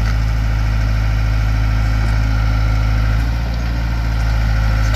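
Backhoe engine running steadily while it digs out a tree's roots, with a slight dip in level about three seconds in.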